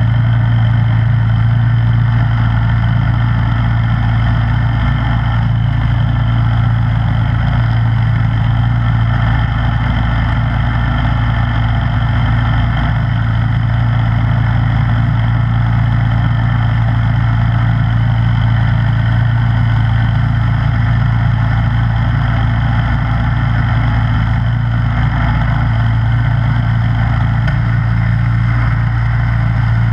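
Snowblower engine running steadily at a constant speed, an even unchanging drone.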